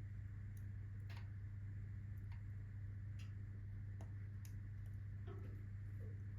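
Wood fire in a fireplace crackling faintly, with sparse, irregular pops, over a steady low hum.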